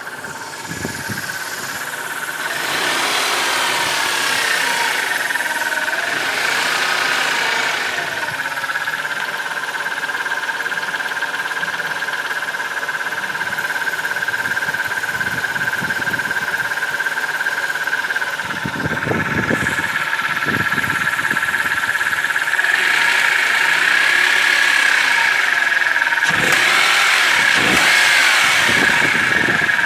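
BMW 318 E46 four-cylinder petrol engine running with a ticking clatter from its hydraulic lifters, which the owner takes for worn lifters. A steady high whine runs over it, and the revs rise and fall several times.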